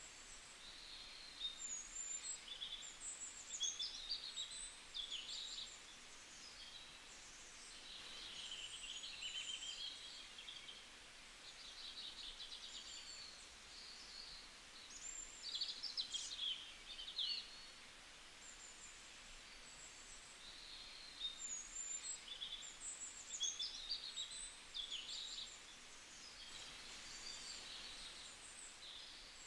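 Faint birdsong: small birds chirping and singing in short high phrases that come and go every few seconds, over a low steady hiss.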